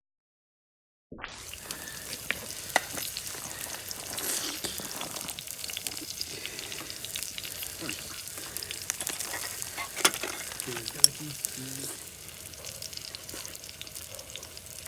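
Olive oil sizzling in a small skillet of ajillo, a steady hiss with scattered crackling pops and a couple of sharper pops near the middle. It starts after about a second of silence.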